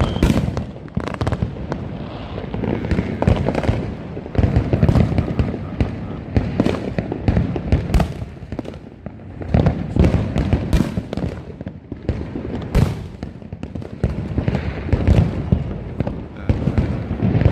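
Fireworks going off without a break: a rapid jumble of sharp firecracker pops and crackles mixed with deeper booms from aerial shells, overlapping and echoing.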